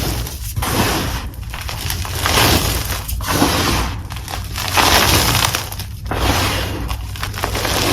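Chalk crushed in the hands with crisp, gritty crunches, one after another, each lasting about a second with short gaps between.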